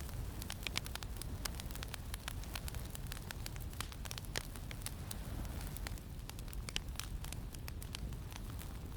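Campfire crackling: frequent irregular sharp pops and snaps over a steady low rumble of wind and flames.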